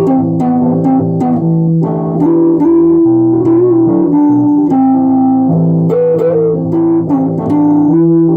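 Guitar music: a plucked guitar melody over a steady bass line, with a few sliding notes.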